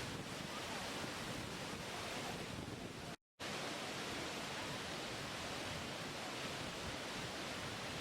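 Steady rush of falling water from a waterfall, an even continuous noise, cut off briefly by a moment of total silence about three seconds in before it carries on unchanged.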